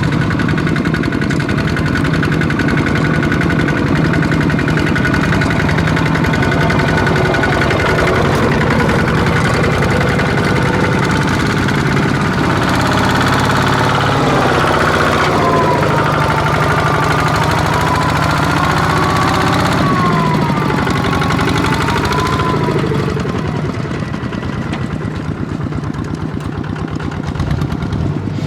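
Kubota ZT155 tractor engine running steadily. About halfway through, a wavering whine rises and falls for several seconds over the engine, and the engine quietens a little near the end.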